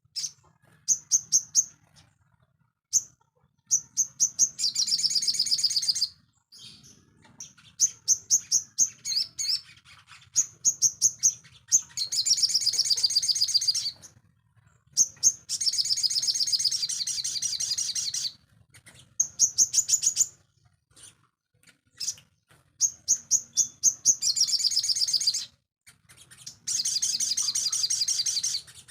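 Sogon songbird singing: series of quick, high chirps alternating with longer rapid trills of a second or two each, with short pauses between phrases, over a faint low hum.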